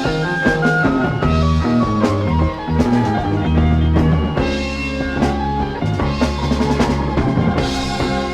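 Rock band playing an instrumental break with no vocals: a drum kit keeps a steady beat over bass and held melody notes.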